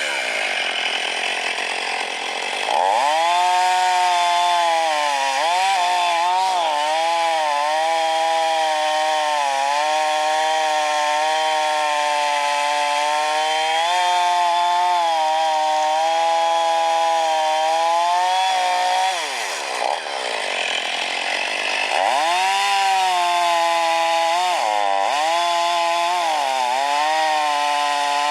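Chainsaw running at high revs while cutting wood, its engine note wavering as it bites. Twice the pitch falls away and climbs back up within a few seconds: once near the start and again about two-thirds of the way through.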